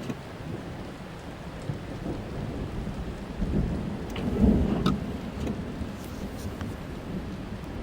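Thunderstorm heard from inside a car: steady rain on the roof and windshield with a few sharp drop ticks, and a low rumble of thunder that swells about halfway through, then fades.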